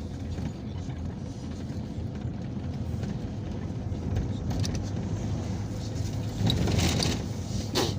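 Inside the cabin of a Peugeot Boxer minibus under way: a steady low rumble of engine and road noise, with a few brief higher-pitched noises shortly before the end.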